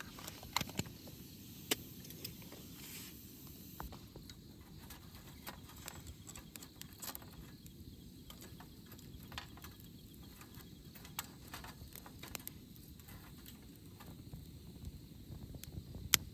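Wood campfire crackling, with irregular sharp pops over a steady low rumble of burning.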